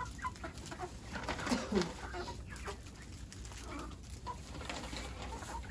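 Chickens clucking, a scatter of short calls with a few brief falling notes.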